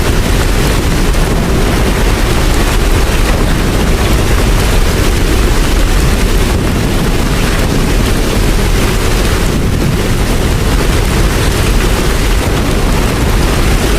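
Steady heavy rain, an even hiss with a deep rumble underneath.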